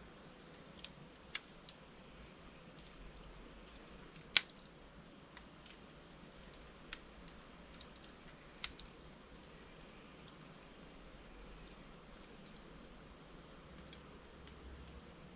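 Logs burning in a fireplace, crackling: irregular sharp pops and snaps over a soft hiss, the loudest pop a little over four seconds in.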